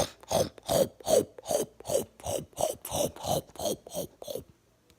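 A rapid, rhythmic munching sound effect of something being eaten: about a dozen rasping chomps, roughly three a second, stopping about four and a half seconds in.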